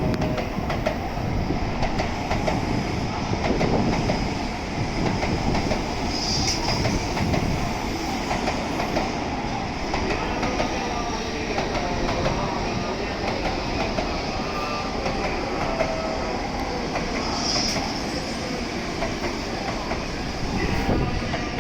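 N700S Shinkansen train moving slowly along the platform, a steady rumble with wheels clicking over the rail joints and two short high squeaks, about six and seventeen seconds in.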